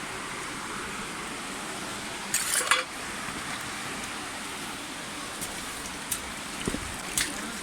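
Steady rushing of a stream. A short burst of rustling or scraping comes about two and a half seconds in, and a few light clicks near the end.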